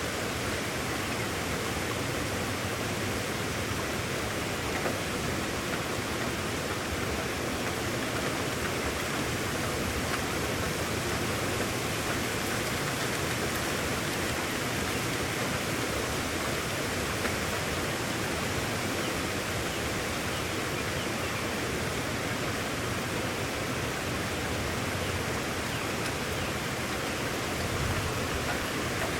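Brisk rain falling in a steady, dense hiss, even throughout with no letup.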